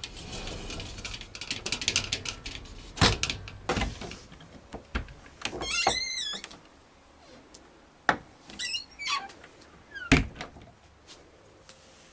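A rattle followed by several sharp knocks, with a few short squeaks in between, like a door or fittings being moved and bumped.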